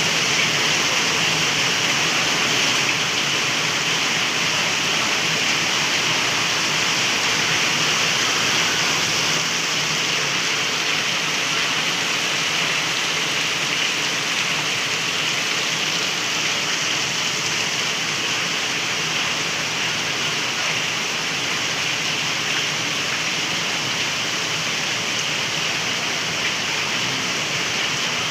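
Heavy rain pouring down, a steady hiss with no breaks.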